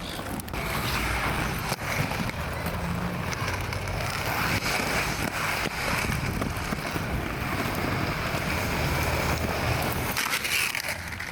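Skateboard wheels rolling over rough pavement, a steady rumble and hiss with a few sharp clicks.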